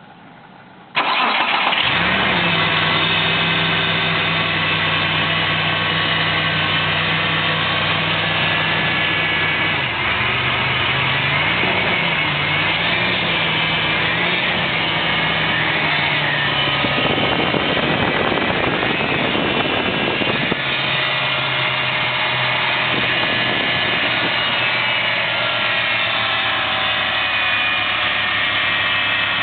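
Mitsubishi Delica PD6W engine starting about a second in and then idling, with high steady whining tones over the engine note: the 'nyaan' abnormal noise, which the owner puts down to the power steering pulley, the water pump or the air conditioner pulley. A louder rushing stretch runs for a few seconds past the middle before the idle settles again.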